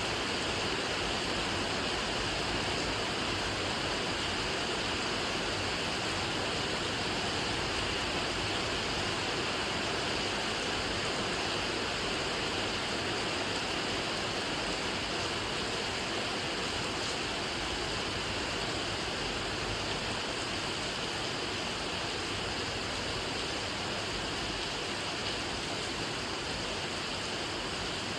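Steady rain falling: a continuous, even hiss that holds level throughout.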